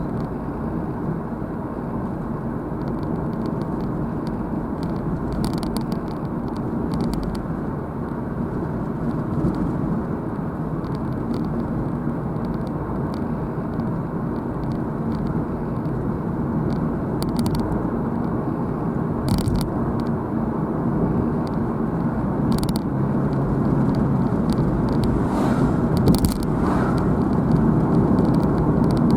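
Car driving along a road: steady engine and tyre noise, with a few faint clicks, growing a little louder near the end.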